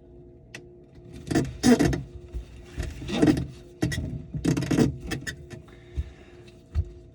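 Three rasping scraping strokes, each under a second long, with scattered clicks and knocks between them from hand work on the drain piping.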